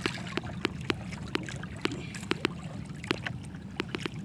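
Low steady hum of a small boat's engine idling, with irregular sharp clicks and taps, roughly three or four a second.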